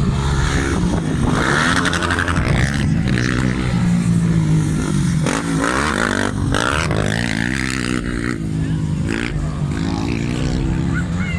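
Motorcycle engines running, their pitch rising and falling in a few places, with the clearest swoops around the middle.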